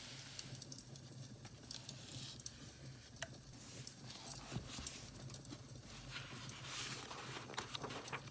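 Crackling firewood with scattered small pops and clicks over a low steady hum, joined by a denser rustle of paper or items being handled about six seconds in.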